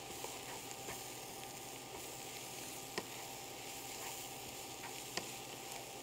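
Onion and spinach dumpling filling sizzling in a hot pan as it is stirred with a wooden spatula: a steady frying hiss with a few clicks of the spatula against the pan, the sharpest about three and five seconds in.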